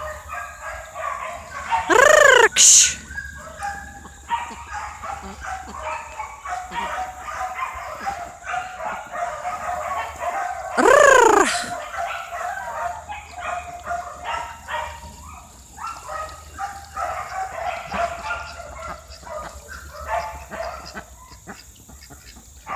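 A flock of poultry calling continually with short, pitched calls, and two louder, longer calls about nine seconds apart, each gliding up and down in pitch.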